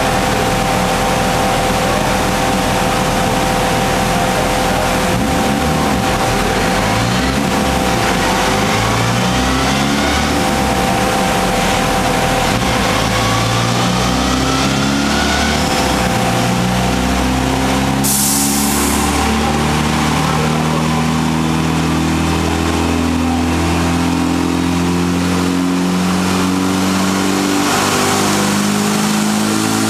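Turbocharged, intercooled Mini van engine running hard on a rolling road, its pitch climbing in a series of steps during a power run. There is a short hiss about two-thirds of the way through.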